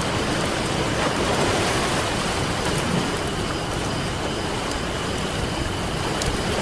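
Ocean surf washing onto a beach, a steady rush that swells a little about a second in, with the light crackle of a campfire over it.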